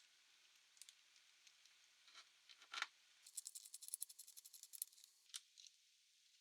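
Small clicks and taps from handling a laptop's case and parts, with one sharper click and then a quick run of fine clicks lasting about two seconds.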